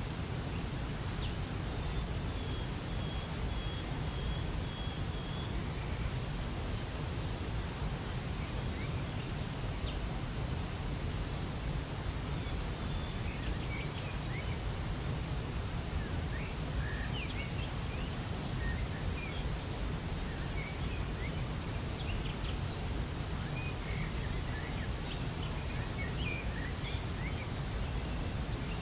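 Steady rush of a waterfall, with small birds chirping in short scattered calls over it, more of them in the second half. A thin steady whistle holds for a few seconds near the start.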